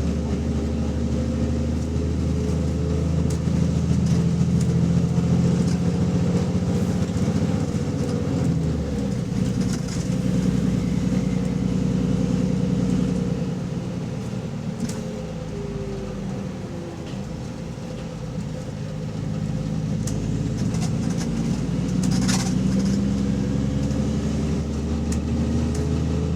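Bus engine running under way with the exhaust leak audible, its note rising and falling with the engine speed. It eases off and drops in pitch about halfway through, then pulls up again.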